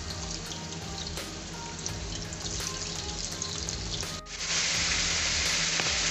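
Raw chicken pieces sizzling as they fry in hot oil on a high flame, being added and moved by hand. About four seconds in the sound cuts to a louder, steadier sizzle of sliced onions frying in oil.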